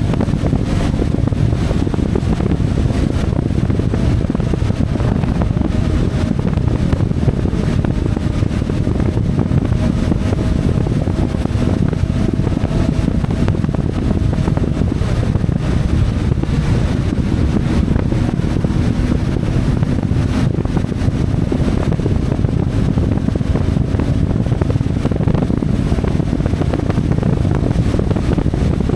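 CFMoto 450MT's parallel-twin engine running steadily as the motorcycle is ridden, with wind noise on the microphone.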